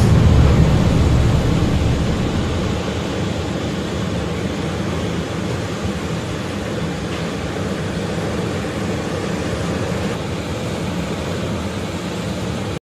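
Steady, even rush of a waterfall, a deep continuous noise that eases a little over the first couple of seconds and then cuts off suddenly near the end.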